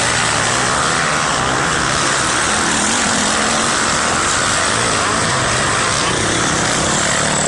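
Motocross dirt bike engine running under a loud, steady rush of noise, its pitch rising and falling a little.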